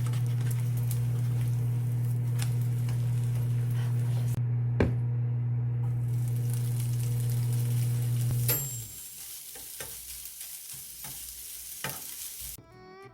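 Food sizzling and crackling, over a loud steady electric hum that cuts off about eight and a half seconds in, leaving the quieter sizzle.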